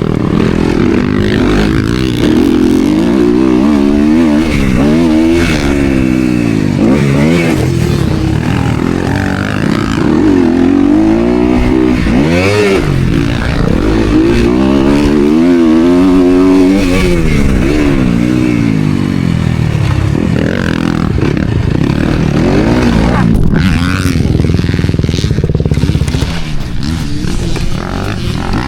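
Motocross dirt bike engine at race pace, its pitch climbing and dropping over and over as the throttle is opened and shut and the gears change through the track's turns and jumps.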